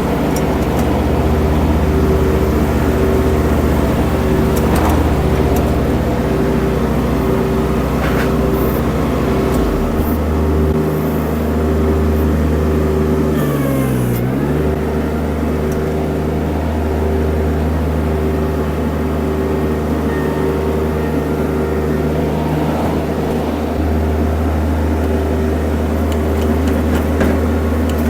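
Mini skid steer engine running steadily at working revs. About halfway through, the engine speed dips briefly and picks straight back up, as under a sudden hydraulic load.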